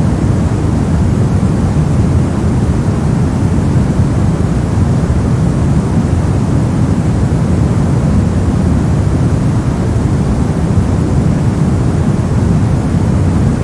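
Steady generated white noise: an even, unbroken rushing hiss, weighted toward the low end so it sounds deep rather than bright, with no change in level.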